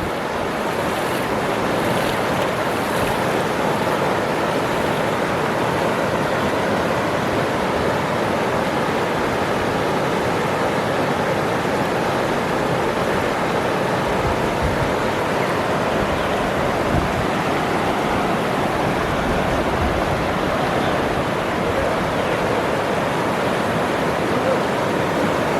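Waterfall, water pouring and splashing in a steady, loud, even rush.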